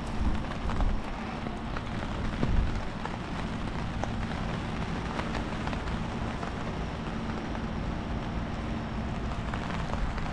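Steady rain falling on a street, a dense patter of drops, with a few gusts of wind rumbling on the microphone in the first few seconds.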